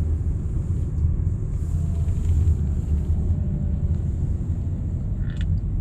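Steady low rumble of a car driving through city streets, engine and tyre noise heard from inside the cabin.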